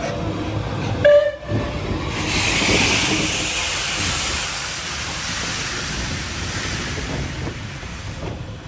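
Steam locomotive giving a short whistle blast about a second in, followed by a long hiss of escaping steam that swells and then slowly fades.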